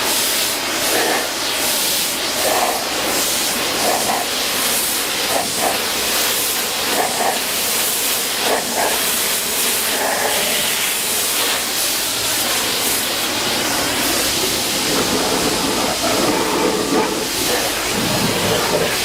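Pressure washer with a 25-degree nozzle tip spraying a steady high-pressure jet of water, rinsing foam and grime off a fire engine's body, with the hiss rising and falling slightly as the spray moves over the surface.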